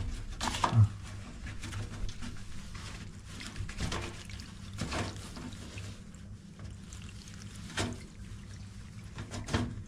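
Leftover water trickling steadily out of an LG washing machine's drain-pump filter opening, with a few scattered knocks from handling.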